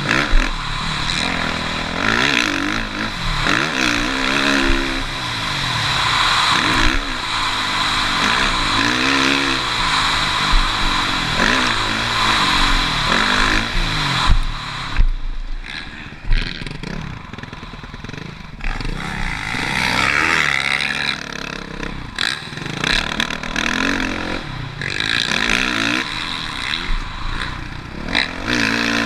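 Suzuki RM-Z450 four-stroke single-cylinder motocross bike revving up and down over and over as it is ridden around the track, with rattles and knocks from the bike. The engine eases off for a few seconds about halfway through, then picks up again.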